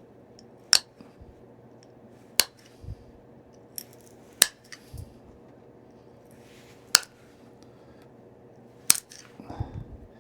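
Stone point being pressure flaked: five sharp snaps, about one every two seconds, as small flakes pop off the edge under the pressure flaker.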